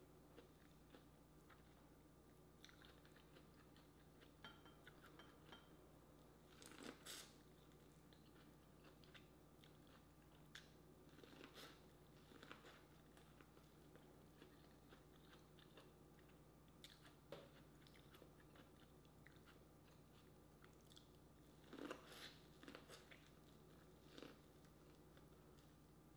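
Faint close-up chewing and biting of corn on the cob: soft crunches and wet mouth clicks, with two louder bouts of crunching.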